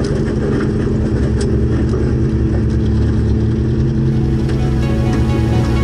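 Volvo 240 rally car's engine running steadily at low revs, near idle, as the car rolls slowly to a stop, heard from inside the stripped cabin. Music begins to fade in near the end.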